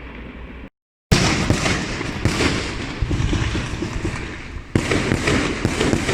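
Fireworks going off in a dense crackle of bangs, with sharper loud bursts about a second in, at two seconds and near five seconds. The sound drops out completely for a moment just before the first burst.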